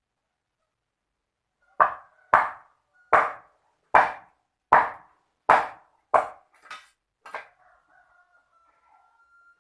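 A series of about eight sharp knocks, evenly spaced a little under a second apart, each ringing briefly, weakening near the end; a faint thin steady tone follows.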